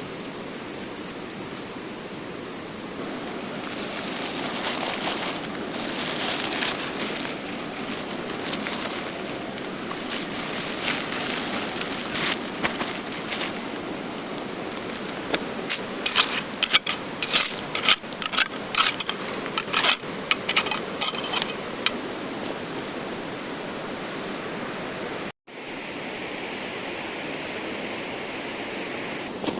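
Mountain stream rushing steadily. Over it, a cluster of sharp clicks and knocks, some of them ringing, runs from about halfway through to roughly three-quarters of the way through.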